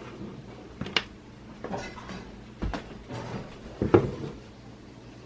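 A handful of separate household knocks and clunks, about a second apart, the loudest about four seconds in.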